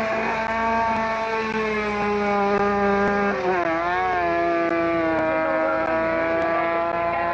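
Vehicle engine running at steady revs. Its pitch dips briefly about halfway through, then holds steady again.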